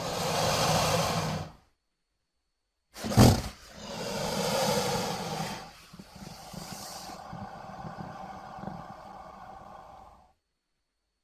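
Designed creature sound effects for Sarcosuchus, a giant prehistoric crocodilian: a roaring call that ends within the first two seconds, then after a short silence a second call with a sharp, loud start. A longer, steadier and quieter call follows and cuts off shortly before the end.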